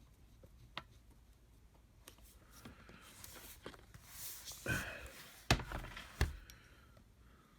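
Light clicks and knocks from handling small screws and MacBook Pro parts by hand: a few soft clicks, a scraping rustle midway, then two sharper knocks under a second apart.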